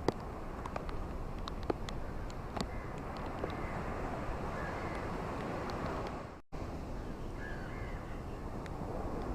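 Ocean waves washing on a beach, a steady rushing noise, with scattered small clicks and a few faint bird calls. The sound cuts out for an instant about six and a half seconds in.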